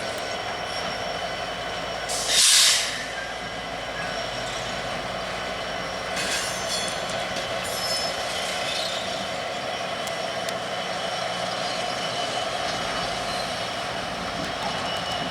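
Train rolling past: a steady rumble of wheels on rail with thin, high squealing tones. A short loud hiss, like an air release, about two and a half seconds in, and a few clicks a few seconds later.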